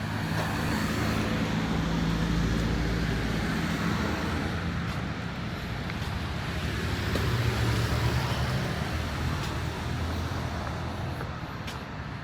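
Road traffic: motor vehicle engines running and passing, with a steady wash of road noise and engine hum that rises and falls in pitch.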